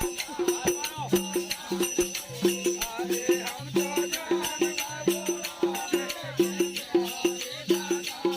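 Bundeli Rai folk music: a drum beating a fast steady rhythm of about three to four strokes a second, with a continuous jingling rattle over it and a wavering melody.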